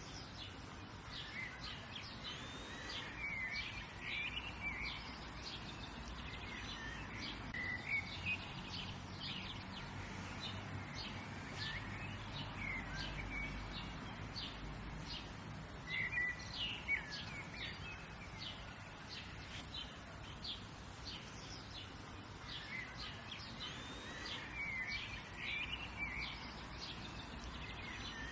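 Several wild birds chirping and calling: a steady run of short, high chirps, with bursts of lower, gliding calls every few seconds, over a soft outdoor background hiss.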